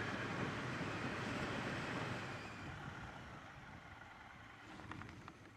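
Wind rush and engine noise from a Triumph Bonneville T120 parallel-twin motorcycle on the move. The noise dies down steadily over the second half as the bike slows.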